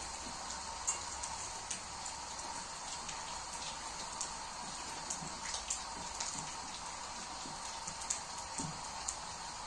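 Steady rain falling, an even hiss with many irregular sharp ticks of individual drops striking a surface.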